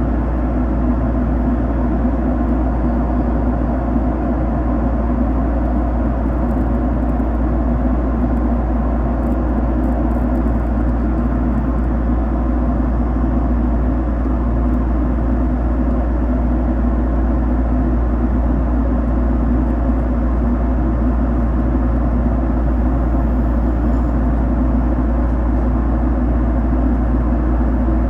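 Jet airliner cabin noise: a steady, even rumble of engines and airflow heard from inside the passenger cabin, with no change in pitch or level.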